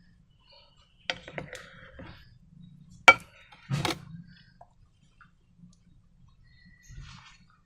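Scattered clicks and knocks from handling slime, balloons and containers. A few small clicks come about a second in, one sharp loud click just after three seconds, and a softer knock near the end.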